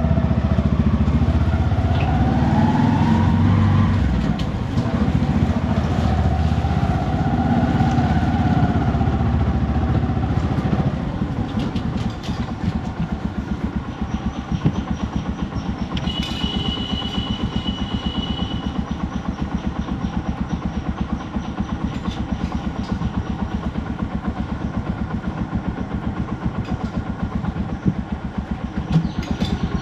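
Motorcycle engine pulling away, its pitch rising and falling through the first ten seconds or so, then running at a steady, even beat of firing strokes. A brief high steady tone sounds for about two seconds midway.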